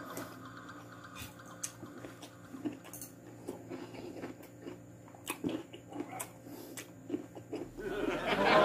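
Close-up chewing of steamed octopus: soft wet mouth clicks and smacks scattered through. Loud voices and laughter rise in near the end.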